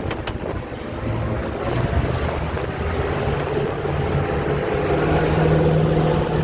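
Motorboat engine drone building as the throttle is pushed forward, settling into a steady run in the second half, over wind and water rushing past the hull.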